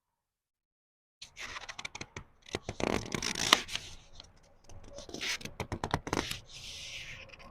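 Book pages being turned slowly by hand: crisp paper rustling and crackling with small clicks, starting about a second in, in two busy bursts of handling, then a softer sliding swish of a page near the end.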